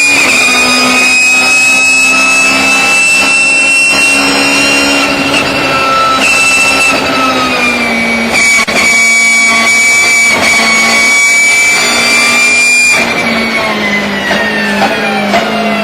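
BMW E36 race car running at speed with the high whine of its straight-cut gears over the engine note. The pitch holds fairly steady, dips briefly about eight seconds in, then slowly falls near the end.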